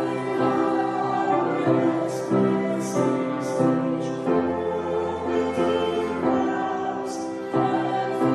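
Music: voices singing a slow piece over instrumental accompaniment.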